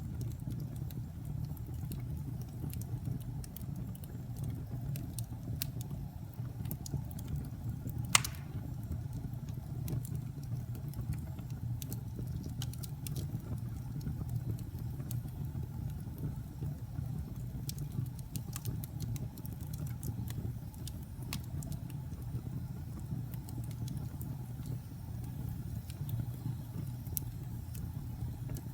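Campfire burning: a steady low rumble with scattered crackles of burning wood and one louder snap about eight seconds in.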